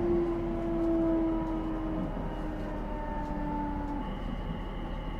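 Inside a moving electric commuter train: steady running noise of wheels on rail with the motors' whine, several thin tones gliding slowly down in pitch.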